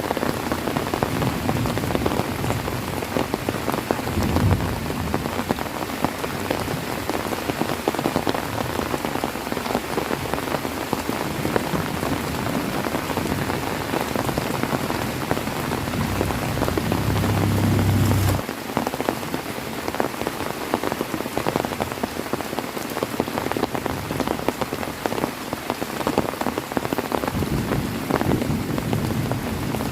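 Heavy rain falling steadily, with dense drops pattering on a surface. A low rumble underneath swells and then cuts off abruptly about eighteen seconds in.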